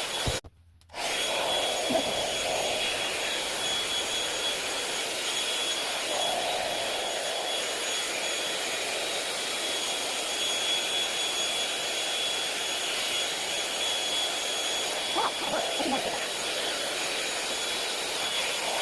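Hot-air hair dryer brush running steadily: a rushing blow of air with a thin high whine on top. It drops out briefly just after the start, then runs on unchanged.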